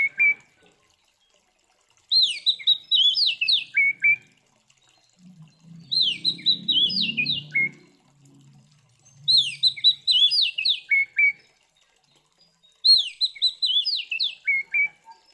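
Oriental magpie-robin (kacer) singing its loud, aggressive fighting song in four repeated phrases. Each phrase is about two seconds of rapid high whistled notes ending in quick downward slurs, with short pauses between phrases. A faint low rumble sounds under the third phrase.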